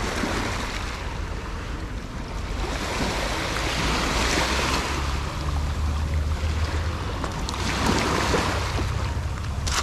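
Small sea waves washing in at the shoreline, swelling twice, with wind buffeting the microphone as a steady low rumble.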